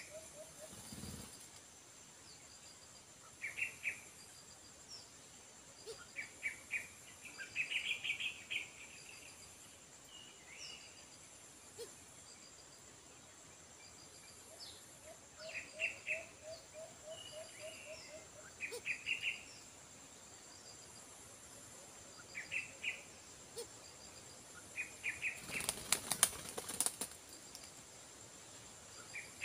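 Birds in a tree calling: repeated short chirps, and twice a quick run of low, evenly spaced staccato notes. Under them runs a steady high-pitched insect buzz. Near the end comes a loud burst of wing flapping as a bird takes off.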